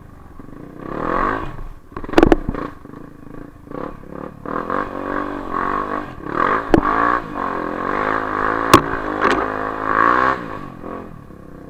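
Off-road motorcycle engine revving in repeated surges, rising and falling in pitch, with three sharp knocks along the way.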